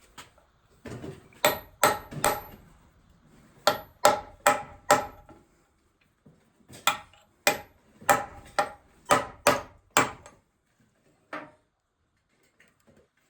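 Hammer blows on metal during transmission teardown: about sixteen sharp strikes in loose groups of two to five, some with a brief high ring, ending with a lone strike near the end.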